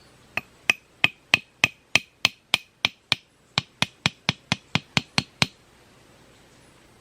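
Rapid series of chopping strikes of a blade on wood: about nineteen sharp knocks, roughly three a second, with a short pause about halfway.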